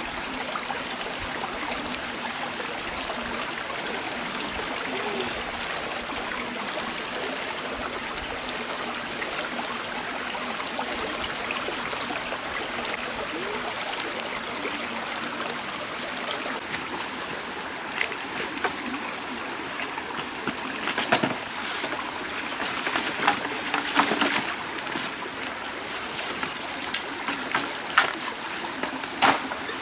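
A stream flowing steadily with a trickling sound. From about eighteen seconds in, irregular sharp clicks and knocks come in over the water.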